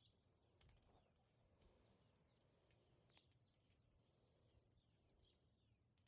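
Near silence, with a few faint, short high chirps and ticks.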